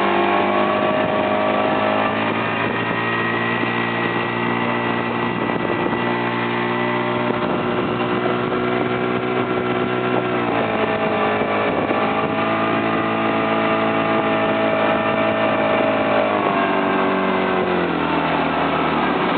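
Motorboat engine running steadily under a hiss of water and wind, towing a banana boat. Its pitch drops about two seconds in, climbs again about halfway through as it speeds up, and drops once more near the end.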